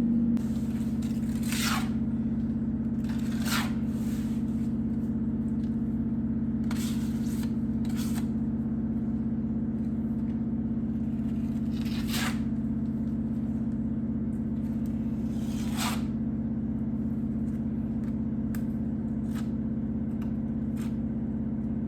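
A steady low hum runs throughout. Over it come six short scraping strokes, a few seconds apart, from a trowel spreading joint compound on a wall.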